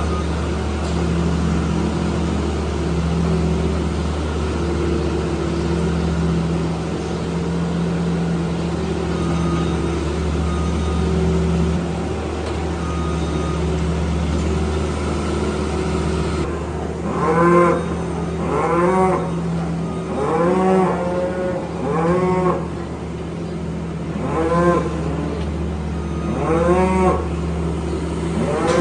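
A steady low engine drone from barn-cleaning machinery, then, from a bit past halfway, calves bawling again and again: about eight short calls that rise and fall in pitch, with the engine hum still underneath.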